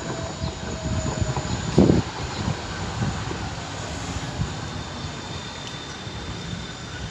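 A London tram running on its rails, a steady rumble with low knocks and a heavier thump about two seconds in; a faint held whine fades out in the first second and a half.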